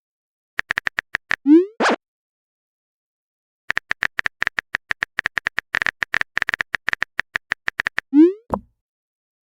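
Chat-app sound effects: a run of quick typing clicks, then a rising pop as a message is sent, followed by a short second blip. It happens twice, and the second typing run is much longer.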